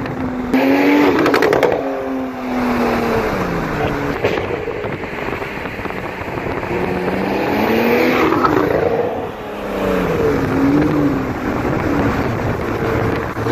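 Porsche 991 Turbo's twin-turbo flat-six, breathing through a SOUL Performance aftermarket exhaust, revving up and falling back several times, with a quick run of sharp pops about a second in.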